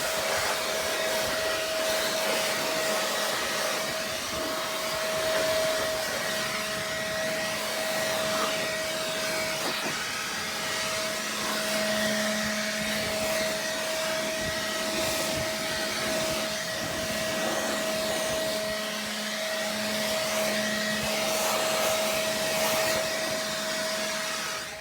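High-speed electric air-moving motor, of the kind in a detailing vacuum or blower, running steadily with a rushing sound and a constant whine. It is switched off at the very end and its whine spins down in pitch.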